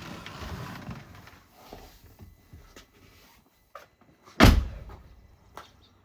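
A car door slammed shut once, about four and a half seconds in, after some rustling and handling noise; no engine is running yet.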